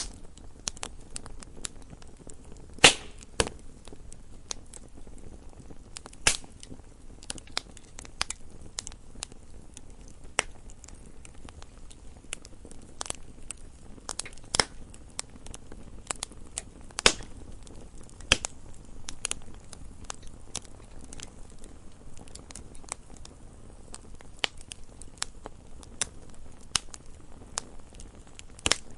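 Campfire crackling: irregular sharp pops and snaps of burning wood over a low steady hiss, with a few louder pops.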